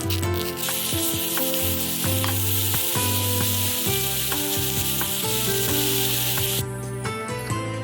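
Food sizzling as it fries in a pan, a steady hiss that cuts off abruptly near the end, with background music running underneath.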